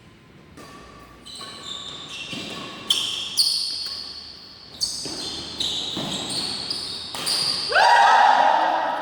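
Badminton play in a sports hall: sharp racket strikes on the shuttlecock and high-pitched squeaks of shoes on the court floor, echoing in the hall. Near the end a longer, louder squeal stands out.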